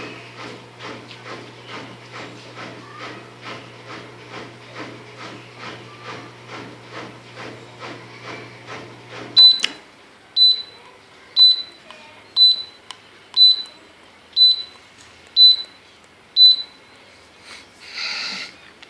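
Brastemp dishwasher's motor running with a steady hum and a rhythmic pulsing, which stops about nine and a half seconds in. Then the machine sounds eight short high beeps about a second apart, its end-of-cycle signal. A brief rustling noise follows near the end.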